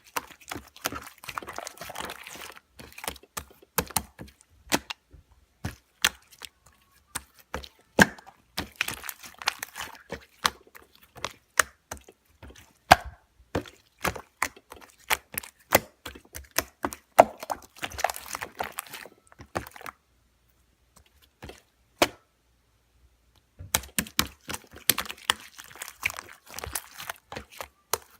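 Slime being squeezed, poked and stretched by hand: a dense run of sharp wet clicks and pops from trapped air, with crackly stretches between them. The sound stops for about three seconds about two-thirds of the way through, broken by a single pop.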